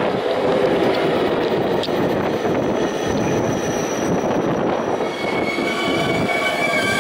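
JR Kyushu 813 series electric train running in along the platform as it arrives: a steady rumble of wheels on rail. About five seconds in, a high squeal of several tones sets in.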